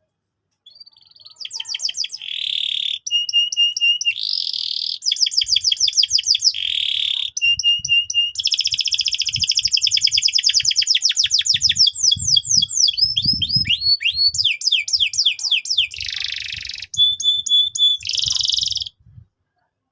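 Canary singing a fast, varied song of rapid trills and rolls, each phrase a run of repeated notes that changes to a new one every second or two. The song starts about a second in.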